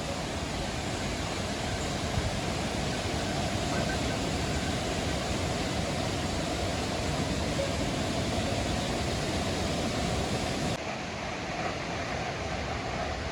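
Steady rush of falling water, a waterfall or cascade. About three-quarters of the way through the sound shifts and loses its highest hiss.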